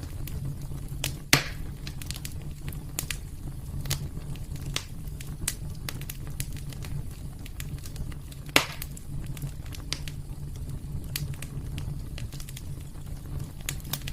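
Wood fire burning in a fireplace, crackling with irregular small pops over a steady low rumble; two louder pops stand out, about a second in and past the middle.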